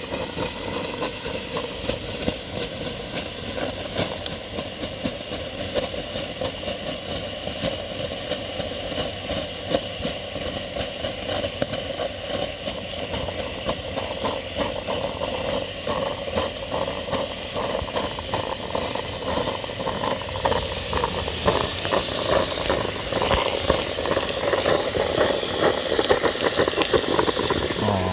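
Cheap drip coffee maker running on 240 volts, its overdriven heating element boiling the water hard: a steady steam hiss with constant crackling and sputtering, growing a little louder near the end. This is the brewing run that ends in the element burning out.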